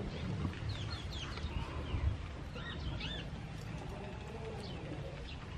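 Small birds chirping in short, quick calls, a few at a time, over a low steady rumble.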